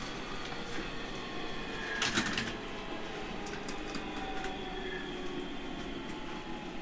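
Onboard running sound of a JR Central 313 series 5000-subseries electric multiple unit: a steady rumble with a faint whine, and a short rattle of clicks about two seconds in.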